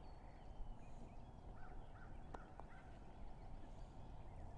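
Faint bird calls outdoors: a few short chirps, then a run of four short repeated notes about a second and a half in, with a single sharp click, over a steady background rumble.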